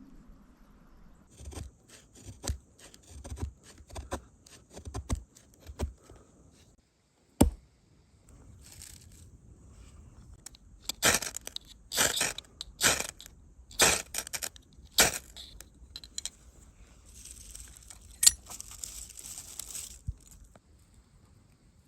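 Sticks and branches being worked by hand, making irregular sharp cracks and knocks, loudest in a run of hard strikes a little past the middle. A scraping rustle follows near the end.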